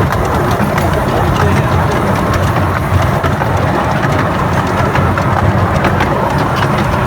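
Train running with a steady low rumble and frequent short clicks and knocks from the wheels and running gear.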